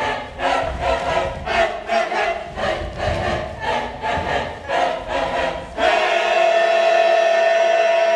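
A group of voices chanting in a rhythmic pattern, about two pulses a second. About six seconds in, this gives way abruptly to a loud, steady held note.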